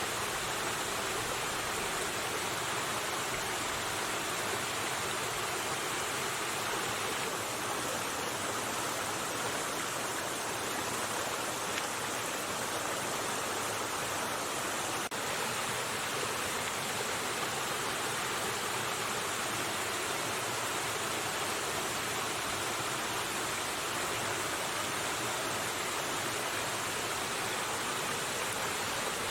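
River water rushing steadily, with a single faint click about halfway through.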